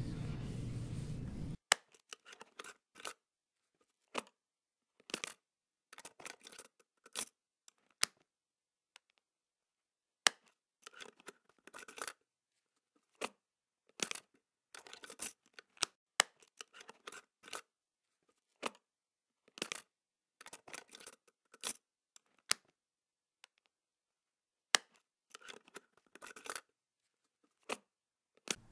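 Scissors cutting paper in short, irregular snips with silent gaps between them, after a steady noise that cuts off about a second and a half in.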